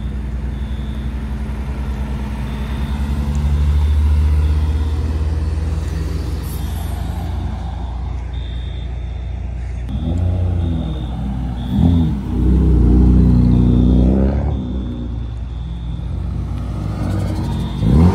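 Modified cars driving past one after another at low speed, their engines running low and steady. About ten seconds in, one car revs, its pitch rising and falling several times. Another engine surges loudly right at the end.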